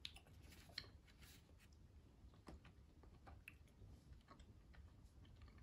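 Near silence, with faint scattered clicks of quiet chewing and mouth sounds as a snack is eaten.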